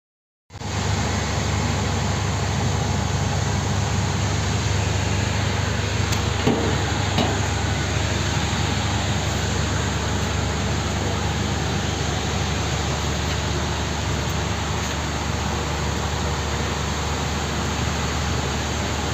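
Steady machine noise from workshop equipment: an even hiss over a low electrical hum, starting about half a second in, with a few faint ticks partway through.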